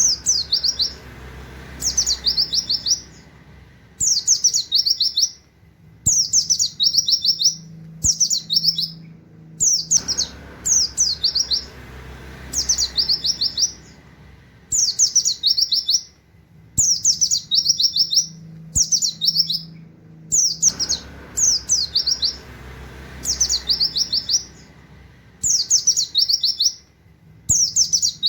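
White-eye (pleci) singing its rapid 'wit-wit' canary-like song: short quick runs of high, sharp notes, repeated every second or two.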